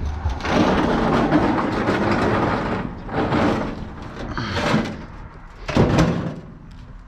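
Scraping, rattling and knocking as a large kitchen appliance is handled and shifted: a long scrape from about half a second in, shorter scrapes after it, and a sharp knock about six seconds in.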